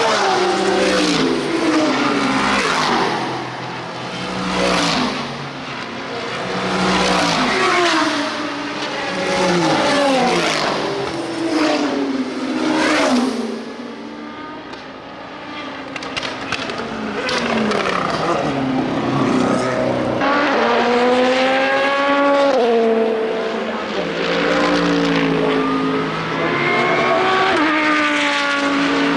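IMSA sports-prototype and GT race cars passing one after another at full racing speed, their engines rising through the gears and dropping back on downshifts. Several cars go by in quick succession in the first half. After a brief lull, engines are heard stepping up through gear changes again.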